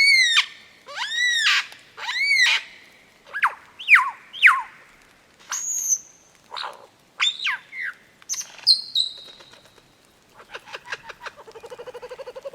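A bird calling loudly: three arching, rising-and-falling calls in the first few seconds, then a run of quick downward-sweeping notes and short high notes. Near the end comes a fast rattling trill.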